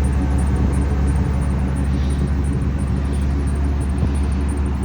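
Ford Triton 6.8-litre two-valve V10 gasoline engine of an F-350 Super Duty truck running steadily with a low rumble.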